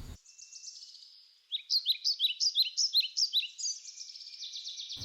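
Songbird chirping: a quick run of high, falling notes, about four a second, starting about a second and a half in, with fainter chirps before it.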